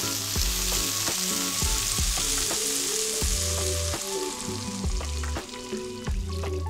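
Diced bell pepper and peas sizzling in hot oil in a nonstick frying pan while a spatula stirs them. Water is poured in about three to four seconds in, and the sizzle dies down.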